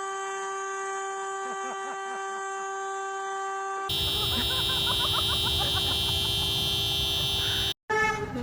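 Car horn sounding in one long, unbroken note. A little under four seconds in, louder noise and higher tones join it, and the sound cuts off abruptly near the end.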